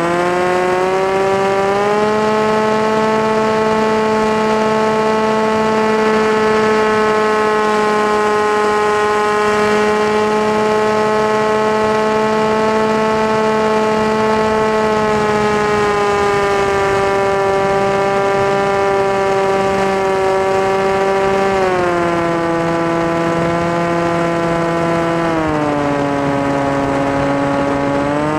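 The motor and propeller of an FPV model aircraft in flight, making a steady pitched whine that follows the throttle. The pitch climbs in the first couple of seconds and holds for a long stretch. It then steps down a few times in the second half and rises again at the very end.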